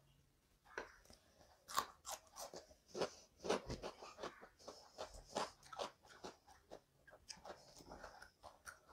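Close-miked eating sounds: chewing raw tomato, with irregular sharp wet clicks and crunches from the mouth.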